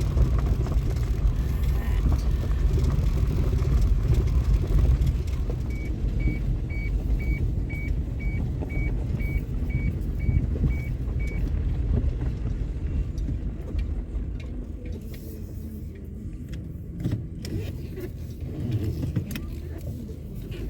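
Wind buffeting the microphone, a low rumble that eases off in the second half. In the middle, a run of about a dozen short high electronic beeps, about two a second.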